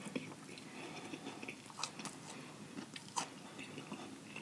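Close-miked chewing of a mouthful of fried chicken sandwich, faint wet mouth sounds with a few soft smacks and clicks, one about two seconds in and another about three seconds in.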